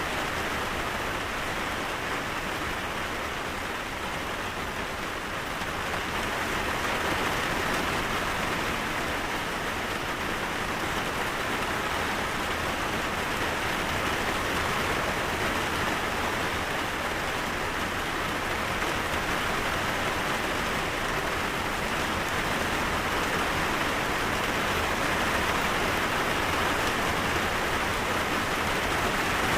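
Steady rain falling, an even hiss of drops on a surface, with a slight lull a few seconds in.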